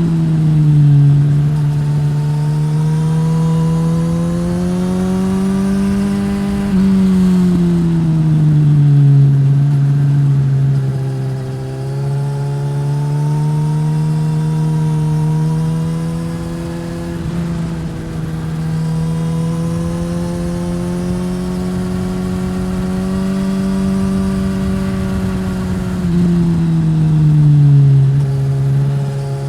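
Suzuki GSX-S1000 inline-four with a Yoshimura R-11 slip-on exhaust, riding under load. The engine note rises and falls as the throttle is opened and closed, with several quick pitch drops at gear changes.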